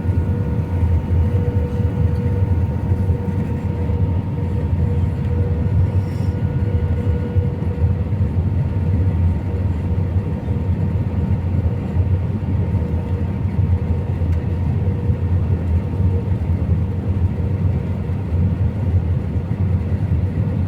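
Cabin noise inside an Airbus A319 airliner in flight: a steady low rumble of airflow and engines, with a constant engine hum tone running through it.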